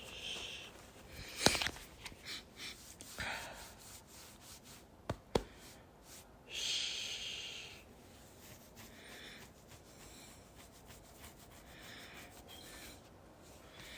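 Close-up breathing with slow exhales, the longest about halfway through, over soft rustling of fabric and a few sharp clicks, about one and a half and five seconds in.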